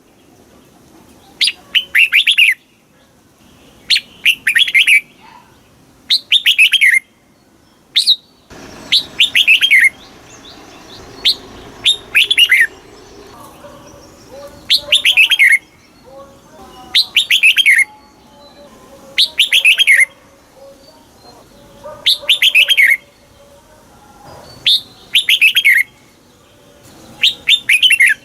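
Red-whiskered bulbul singing short, loud phrases of quick falling notes, repeated about every two seconds.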